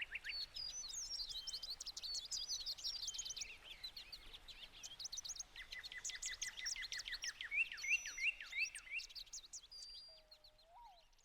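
Songbirds chirping and singing: many quick, high chirps and short trills overlapping, fading out near the end.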